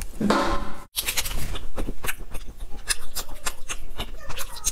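Close-up eating sounds of a chocolate bar: a brief voiced 'mm' at the start, a short gap just before a second in, then a quick run of crisp crunching and chewing clicks.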